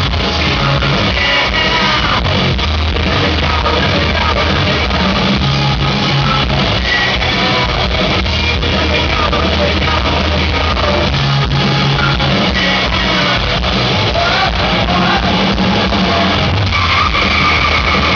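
Live hard rock band playing loud, with distorted electric guitars, bass, drums and shouted singing, heard through a crowd recording in a large hall.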